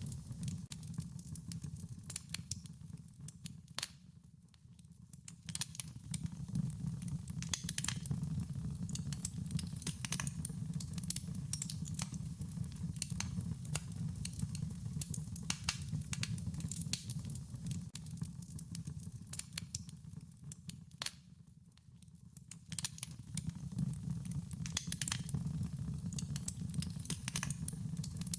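Wood fire crackling: irregular sharp pops and snaps over a low, steady rumble of flames, dipping quieter briefly twice.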